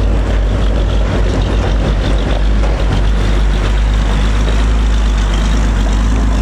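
Heavy truck's diesel engine running loud and close, a steady low rumble.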